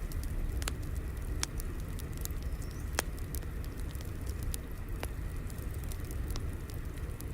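Wood fire crackling: a steady low rumble with irregular sharp pops and snaps.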